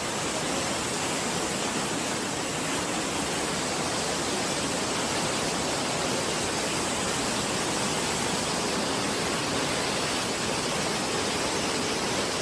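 Flash-flood water rushing steadily through a street in a loud, unbroken torrent.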